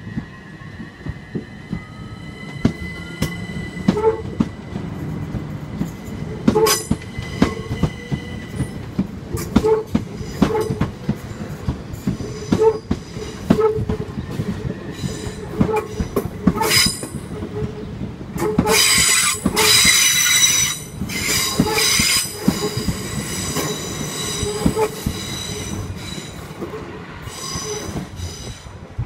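A Class 375 electric multiple unit pulls out, its traction motors whining and rising in pitch at first. Its wheels click regularly over the rail joints. About two-thirds of the way through comes a loud high-pitched wheel squeal that lasts a few seconds.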